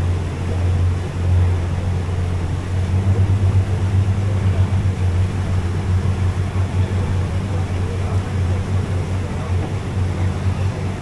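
Small boat's motor running steadily with a low, even drone.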